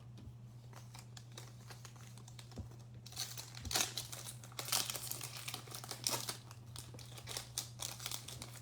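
A trading card pack's wrapper being torn open and crinkled, with light handling ticks at first and a dense run of crinkling about three seconds in that thins out near the end. A steady low electrical hum runs underneath.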